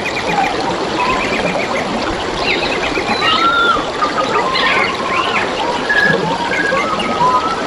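Several wild birds singing, with whistled notes and quick trills overlapping, over the steady babble of trickling running water.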